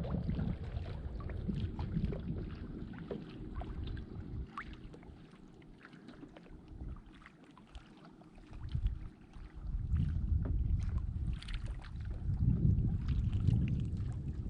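Water sloshing and lapping against a kayak hull, with scattered small splashes and clicks over a low rumble of wind on the microphone. It quietens for a few seconds in the middle, then picks up again.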